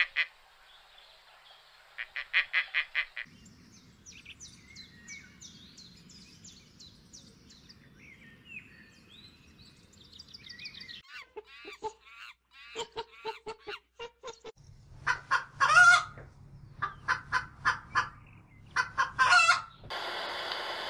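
Bird calls in several stretches: a short run of quick pulsed calls, then thin high chirping song, then a long series of loud clucking calls in quick groups. Near the end a steady hiss starts.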